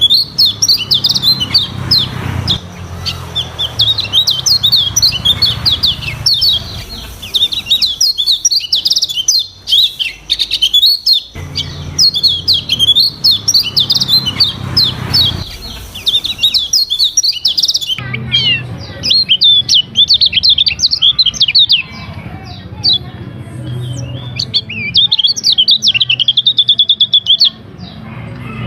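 Kecial kuning (white-eye) singing a fast, continuous, varied twittering song of high chirps and trills, with a rapid trill near the end.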